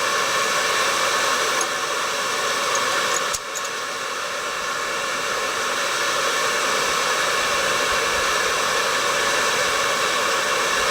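A forge running with a steady rushing noise, with a few faint light ticks about two to three seconds in.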